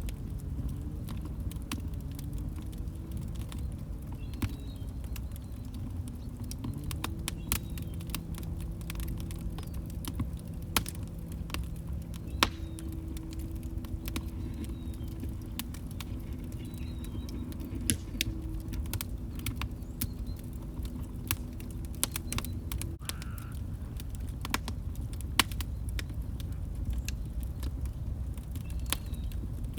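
Wood fire burning in a fireplace: a low steady rumble with irregular crackles and pops, a few of them sharper and louder. A faint low tone wavers under it and stops about 23 seconds in.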